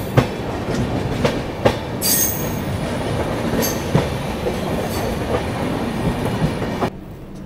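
Two passenger trains running past each other on adjacent tracks, heard from an open coach doorway: a steady rumble of wheels on rail, broken by sharp clacks at rail joints, with a faint high wheel squeal in the middle. About seven seconds in, the sound drops abruptly to a quieter rumble.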